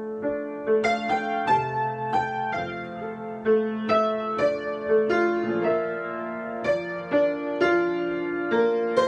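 Solo piano improvisation: notes and chords struck about twice a second, each left to ring on under the next.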